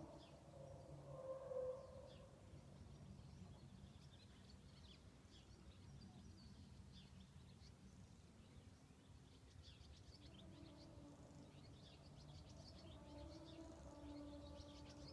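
Faint unexplained droning noise from the sky: a few steady, overlapping tones that fade after the first couple of seconds and return from about ten seconds in, with faint birds chirping.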